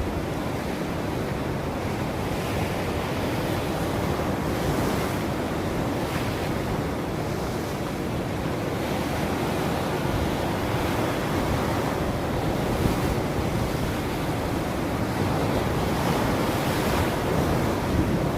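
Ocean waves breaking and washing on a shore in a steady rumbling wash, with a couple of gentle swells in the hiss as waves break, one near the end.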